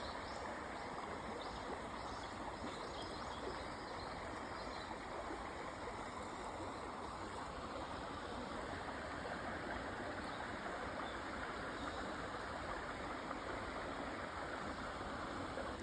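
Mountain stream running: a steady rush of flowing water over rocks.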